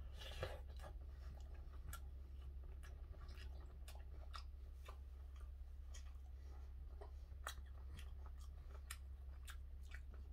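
Faint close-up chewing of gwamegi (half-dried saury), with scattered small irregular clicks and smacks throughout, over a steady low hum.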